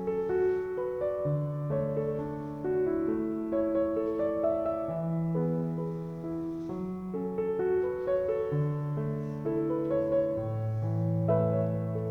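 Background music: a gentle piano piece playing slow, held chords that change about once a second.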